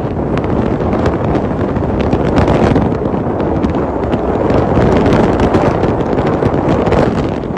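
Wind buffeting the microphone: a loud, gusting rumble with faint crackles through it.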